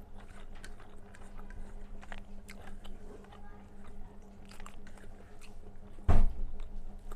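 Close-miked mouth sounds of a person chewing a mouthful of rice with red amaranth greens and potato curry: soft wet clicks and smacks. About six seconds in there is one sudden, loud thump, the loudest sound here.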